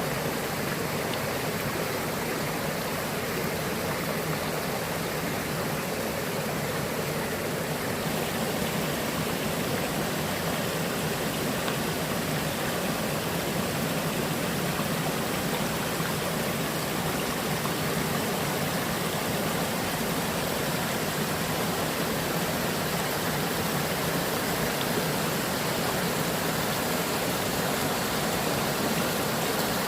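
Mountain valley stream running, a steady, even rush of water.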